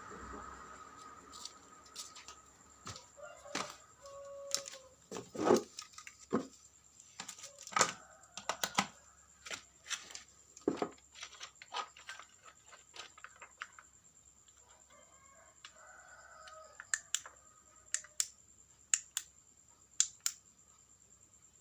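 Scattered sharp clicks and knocks of small plastic parts and tools being handled while a cordless vacuum cleaner is taken apart for a battery change. A pitched animal call sounds twice in the background, about four seconds in and again about sixteen seconds in.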